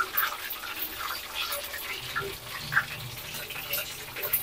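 Chewing crispy fried chicken: scattered small crunches and wet mouth sounds.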